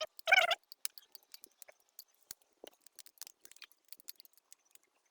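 A short high, wavering pitched sound right at the start, then scattered light clicks and ticks of parts and tools being handled during oil cooler housing refitting.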